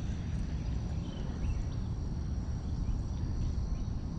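Outdoor ambience: a low, even rumble with a faint, steady high insect trill above it.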